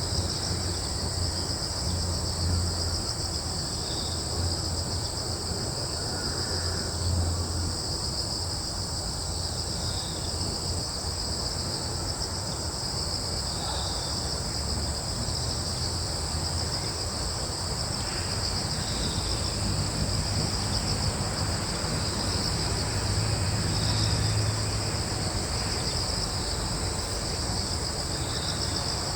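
Steady chorus of crickets, a continuous high-pitched trilling in two layers, with a short faint higher note every four to five seconds and a low rumble underneath.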